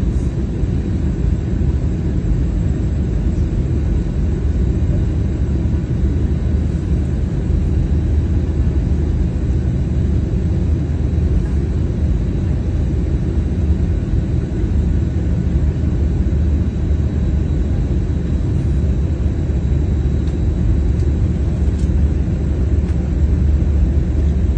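Airplane's steady low rumble, even throughout, its weight in the deep bass.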